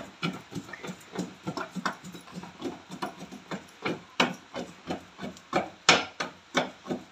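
Stone pestle pounding tomato, green chilli and onion chutney in a stone mortar, a stroke about three times a second. The strongest hits come about four and six seconds in.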